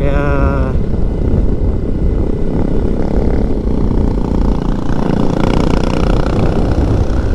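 Motorcycle engine running on the move, under heavy, steady wind rumble on the microphone.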